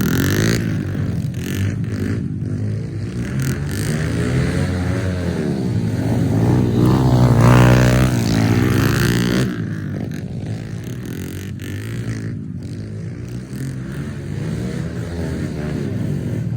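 Pit bike engine revving up and down as it rides through mud, its pitch rising and falling; it is loudest around the middle and drops off after about nine and a half seconds.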